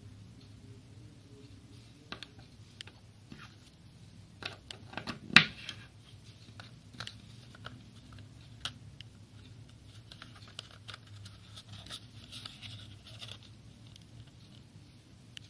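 Hands handling a lip balm and its packaging: scattered small clicks and rustles, one sharp loud click about five seconds in, and light crinkling near the end.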